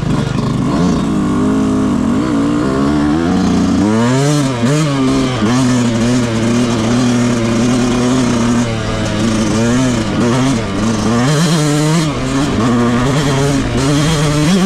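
Yamaha YZ125 dirt bike's stock two-stroke single-cylinder engine under riding load. It runs fairly steady at first, then revs up and down repeatedly as the throttle is worked, from about four seconds in.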